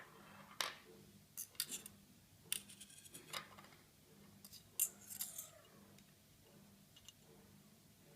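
Small hard objects being handled: clusters of sharp clicks and taps over the first five seconds or so, with a brief squeak near the middle.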